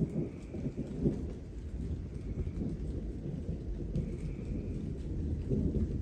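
Distant thunder rolling: a low, rumbling peal that breaks in suddenly and keeps growing louder, over light rain.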